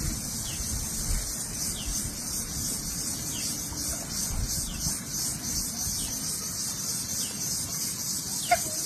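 Outdoor bird and insect sounds: a steady high insect buzz with a small bird repeating a short downward-sliding note about once a second.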